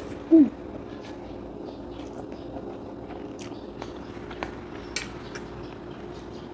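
A short falling 'mm' hum, then quiet chewing with small scattered clicks of cutlery on a dish, over a faint steady hum.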